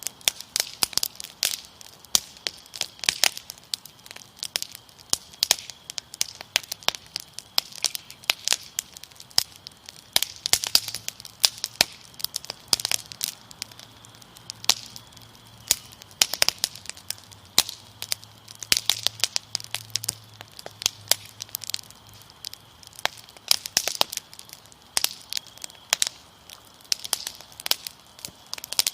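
Fire crackling with frequent sharp pops, over a faint steady chirring of crickets.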